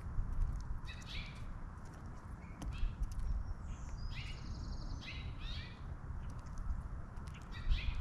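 Small wild birds at a feeder giving several short chirping calls, with a longer buzzy trill about four seconds in, over short clicks and a steady low rumble.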